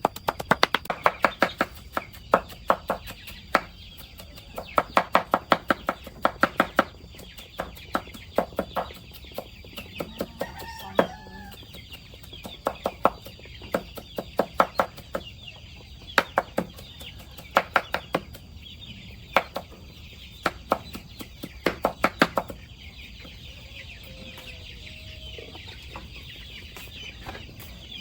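Chickens feeding, clucking now and then among bursts of quick, sharp tapping, the kind made by beaks pecking at food.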